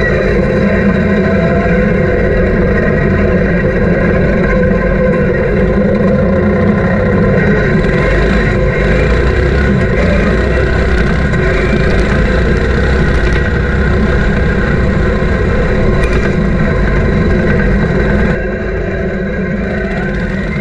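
Off-road lawn tractor's engine running steadily and loudly, dropping somewhat in level about 18 seconds in.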